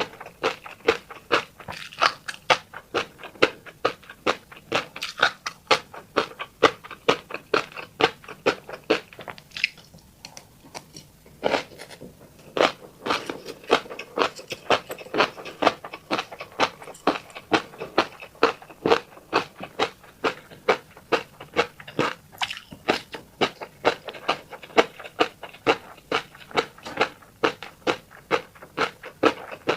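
Someone chewing a mouthful of fish roe, a rapid run of sharp wet pops and clicks, several a second, as the eggs burst. There is a brief lull about ten seconds in.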